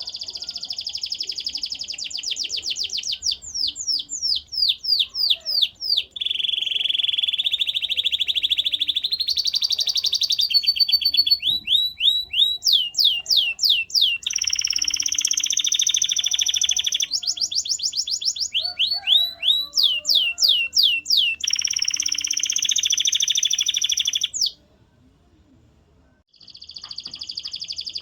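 Male canary singing a long song: fast rolling trills alternate with series of quick down-swept notes at a few a second. There is a pause of about two seconds near the end, and then the song goes on.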